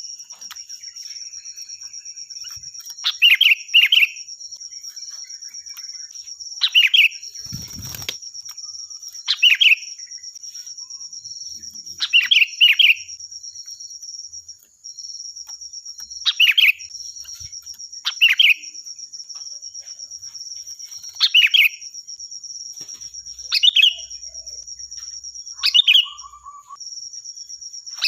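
Sooty-headed bulbul (kutilang) calling loudly and shrilly, in short ringing bursts every two to three seconds, some in quick pairs. A steady high-pitched whine runs underneath.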